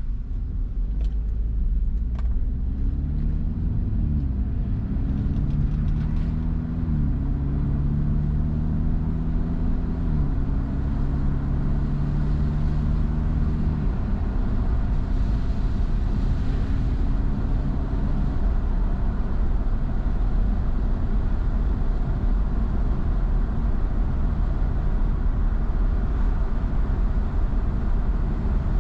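Car engine pulling away and accelerating, its pitch climbing and dropping back about three times as the transmission shifts up, then levelling off. After that there is steady road and tyre noise with a low rumble.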